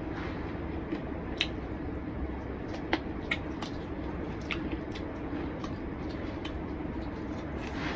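A person eating rice and curry with their hand: wet chewing and mouth clicks, a few sharper smacks among them, over a steady low background hum.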